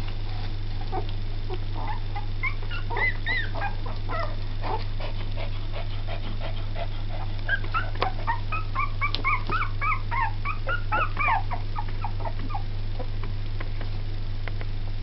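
Two-week-old Jack Russell–Yorkshire terrier cross puppies squeaking and whimpering in short, high-pitched cries: a flurry about three seconds in and a longer run from about seven to eleven seconds. A steady low hum runs underneath.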